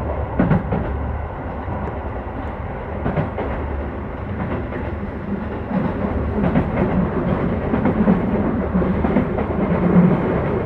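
Keio 5000 series electric commuter train running at speed, heard from inside the car with the phone against the window: a steady rumble of wheels on rail with scattered clicks. In the second half it grows slightly louder, with a repeating low beat of wheels passing over rail joints.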